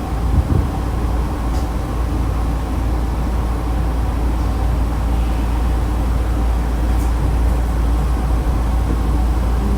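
Nankai 2000-series electric train (set 2036F) running between stations, heard from inside the car: a steady rumble of wheels on rails with faint higher running tones and a couple of light clicks.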